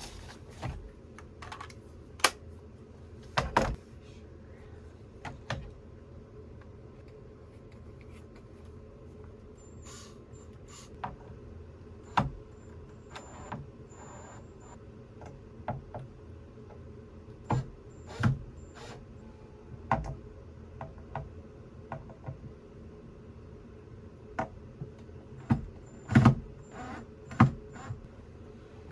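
Power drill running in short bursts, backing out screws, amid knocks and clatter as wooden dinette parts are worked loose.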